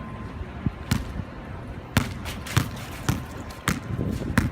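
Basketball being dribbled on wet ground, a series of sharp bounces that starts about a second in and settles to roughly two bounces a second.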